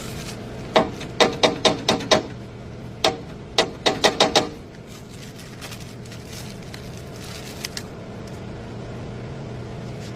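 Two quick runs of sharp knocks, about six each, with a pause between them, over a steady low hum.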